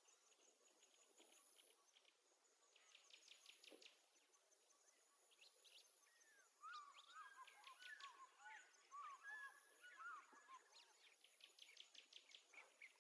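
Faint birdsong: quick high trills, with a busier run of short chirping, warbling notes through the middle.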